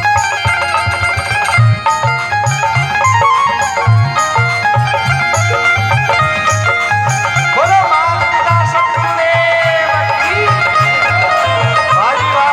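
Instrumental interlude of a Rajasthani folk bhajan: a melody line with held and sliding notes over a steady low drum beat and evenly repeating high ticks.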